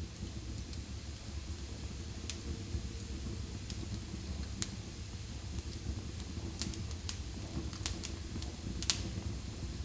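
Wood fire burning in a fireplace: a steady low rush with sharp crackles and pops scattered irregularly through it, the loudest pop near the end.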